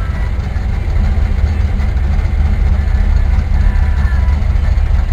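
Car engine and exhaust running steadily with a deep, even low note while the car drives along.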